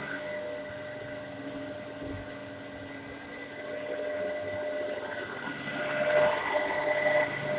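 Dyson DC07 bagless upright vacuum cleaner running with a steady motor whine. About six seconds in it gets louder and hissier for about a second.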